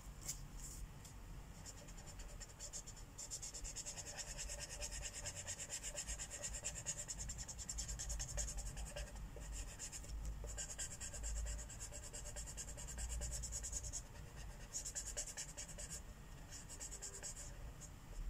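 Felt-tip marker scratching on a colouring-book page in rapid back-and-forth colouring strokes, with two short breaks about halfway through and a few seconds later.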